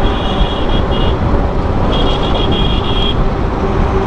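Road traffic and wind noise heard from a moving motorcycle, a dense steady rumble. Two runs of short high-pitched beeps sound over it, one right at the start and another about two seconds in.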